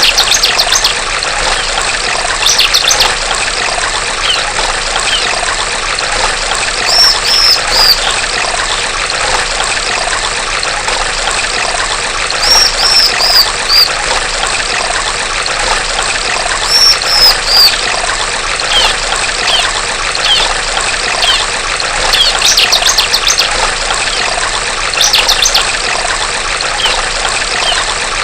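A female bar-winged prinia (ciblek) calling every few seconds over steadily trickling water. Its calls are rapid, buzzy high trills and short runs of three or four falling notes.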